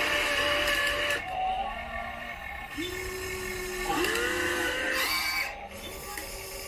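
Small electric motors of a radio-controlled model excavator whining in short runs of one to two seconds, each spinning up to a steady pitch and then stopping, sometimes two at once at different pitches.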